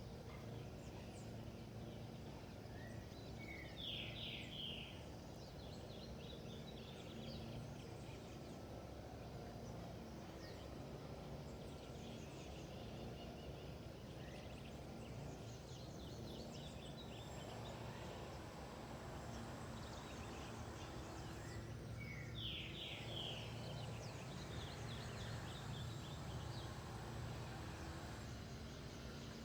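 Birds calling over a steady low background rumble, with faint chirping throughout. A louder call, a short rising note followed by a quick run of notes, comes twice: about four seconds in and again about twenty-two seconds in.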